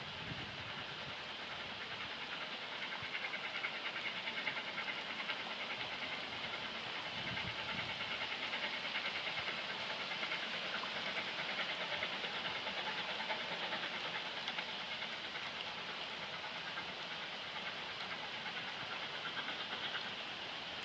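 Saxon class VI K narrow-gauge steam locomotive working past with its train, a steady rush of steam and rail noise that swells and then eases slightly toward the end.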